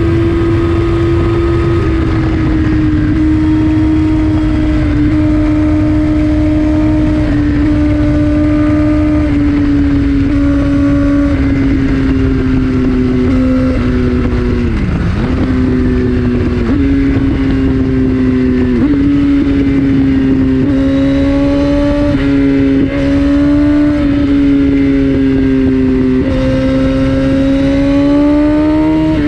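Kawasaki ZX14R's inline-four engine through an Akrapovic Racing Line exhaust, running hard at high revs at speed. Its pitch sags slowly, drops briefly and recovers about halfway through, then climbs in steps near the end, over a low rush of wind.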